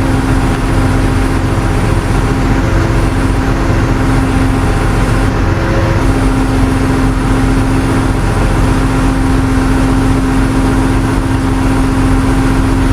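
A vehicle engine running steadily with a constant hum, its tone briefly dipping about five and a half seconds in before settling back.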